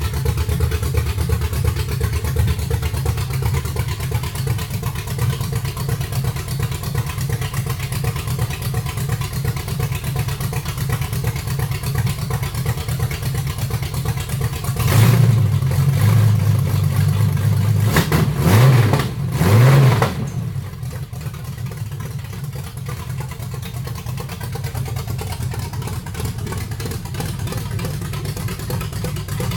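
Buggy's newly installed engine idling steadily, then revved about halfway through in a few blips that rise and fall in pitch, before settling back to idle.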